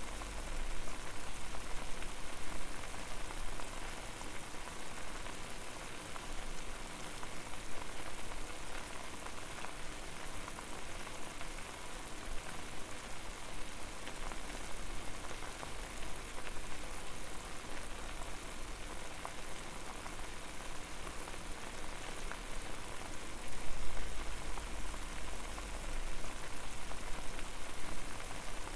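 Water boiling hard over an open flame: a steady bubbling and popping hiss, with a low rumble that swells briefly about twenty-four seconds in.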